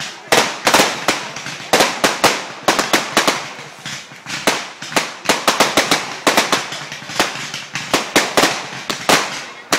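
Fireworks going off: a rapid, irregular string of sharp bangs and cracks, several a second, with no let-up.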